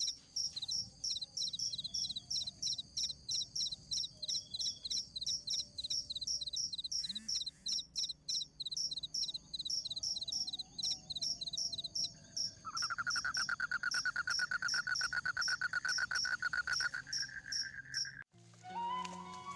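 Crickets chirping in a steady, evenly spaced run of high chirps, several a second. Past the middle a lower, fast-pulsing trill joins for about four seconds. Near the end the night sounds cut off suddenly and flute-like background music begins.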